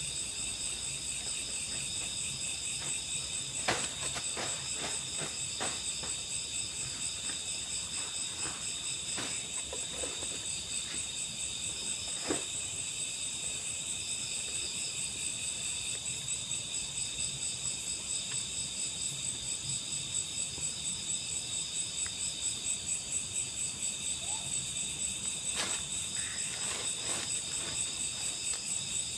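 Dense chorus of night insects: several steady, pulsing trills at different pitches. A few sharp clicks or snaps cut through it, about four seconds in, about twelve seconds in, and near the end.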